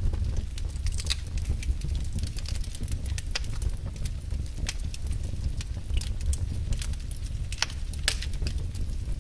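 Wood fire crackling in a fireplace: irregular sharp pops and snaps over a steady low rumble, with several louder pops.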